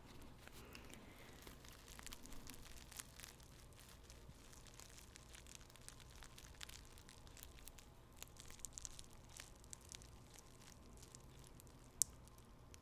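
Tea bags handled and rubbed close to the microphone: soft, irregular paper crinkling with many tiny ticks and one sharper click about twelve seconds in.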